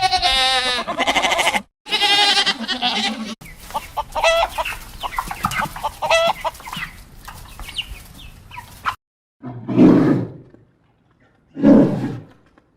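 A series of animal calls: two long calls with a wavering pitch, then several seconds of many short, quick calls, then two short, low calls near the end.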